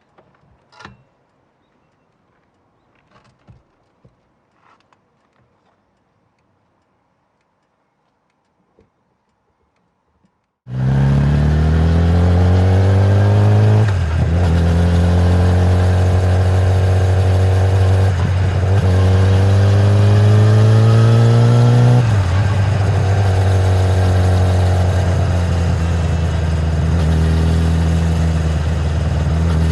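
A few faint clicks, then about ten seconds in the 2013 Kawasaki ZX-10R's inline-four on its stock exhaust cuts in loud, accelerating with its pitch climbing and dropping back at three upshifts, then pulling on more steadily.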